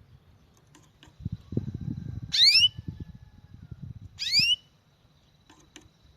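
A songbird gives two loud, short, rising whistled calls, about two seconds apart, over low bumping and rustling.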